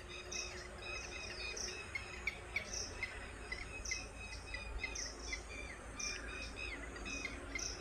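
Birds chirping: many short, repeated chirps at an uneven pace, over a steady low background rumble.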